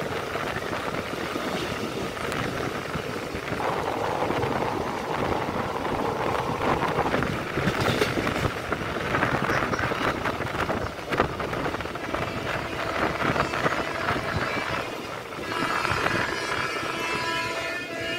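Passenger train running along the track, heard from an open carriage window: a steady rush of wind and wheel-on-rail noise with a few sharp clicks.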